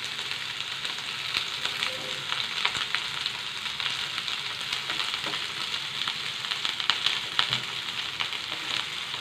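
Parboiled cauliflower florets sizzling steadily in hot oil in a nonstick kadhai on high flame, with scattered scrapes and taps from a plastic slotted spatula turning them.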